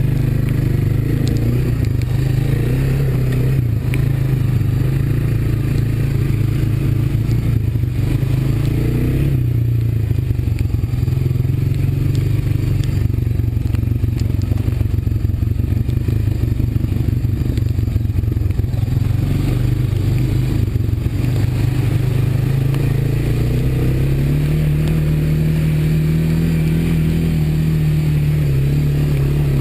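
Honda ATV's single-cylinder four-stroke engine running steadily under way, with some clatter. The engine pitch steps up about 24 seconds in.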